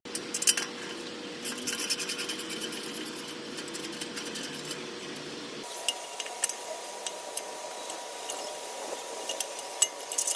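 Hand tools working on a truck's exhaust hangers and fittings: rubbing and scraping, with scattered sharp metallic clicks and a quick run of clicks a couple of seconds in.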